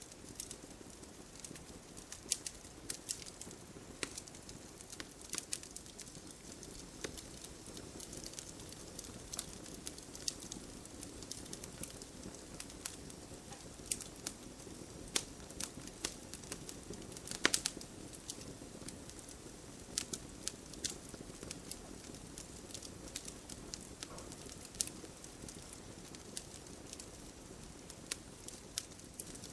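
Wood campfire crackling: irregular sharp pops and snaps over a faint low rush of the burning fire, with one louder pop a little past halfway.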